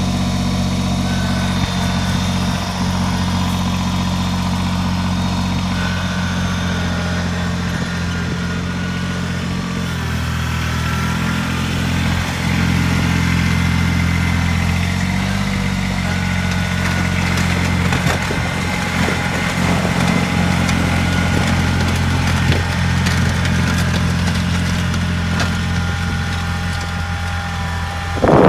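Kubota BX2380 sub-compact tractor's three-cylinder diesel engine running steadily while plowing snow. Its note shifts for a few seconds about ten seconds in, and a rougher noise rises over it in the second half.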